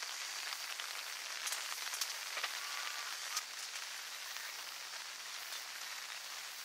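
Steady rain falling on a DD 4×4 camping tarp, with a few louder single drops striking in the first half.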